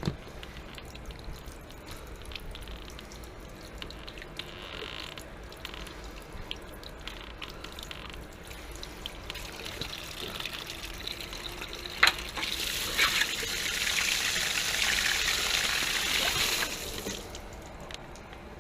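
Water spraying out of a water heater tank through the opening of its pulled drain valve, under nearly full pressure. A sharp knock about twelve seconds in is followed by a loud rushing spray for about four seconds, which then cuts back.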